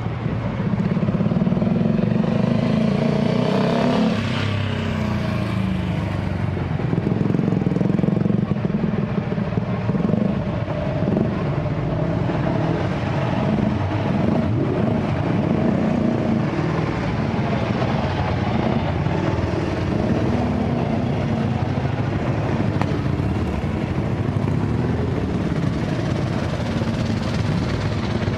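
Classic car engines running as cars drive slowly past one after another, the engine notes rising and falling, with one falling away in pitch about four seconds in.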